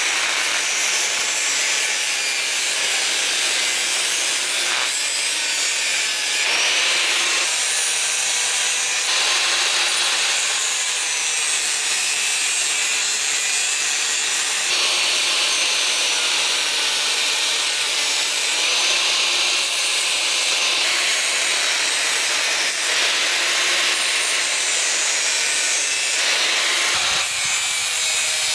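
Angle grinder cutting and grinding steel: a continuous high, gritty hiss with the motor's pitch wavering under load. The sound changes abruptly every few seconds.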